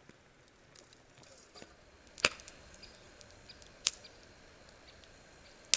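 Campfire wood crackling: three sharp pops, about two seconds in, near four seconds and at the very end, with faint small ticks between them.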